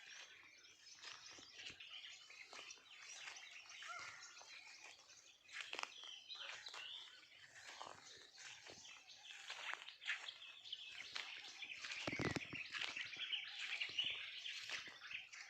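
Many small birds chirping and calling at once in a busy morning chorus. About twelve seconds in there is a louder, low thump.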